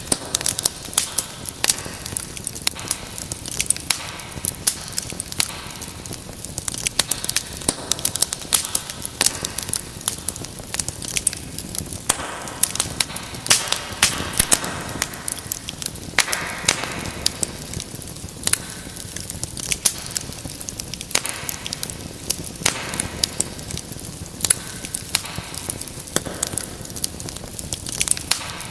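Wood fire crackling in a fireplace: frequent irregular sharp pops and snaps over a steady soft hiss of flames, with a few brief louder hissing swells.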